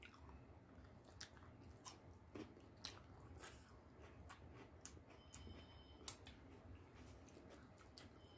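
Faint chewing and small mouth clicks of people eating rice and curry by hand, with scattered soft clicks from fingers working the food on the plate.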